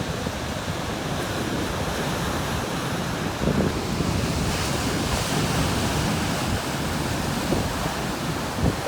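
Heavy Atlantic surf breaking and churning on a rocky shore at high tide: a steady roar of water, with a louder hissing wash about halfway through. Gusts of wind buffet the microphone.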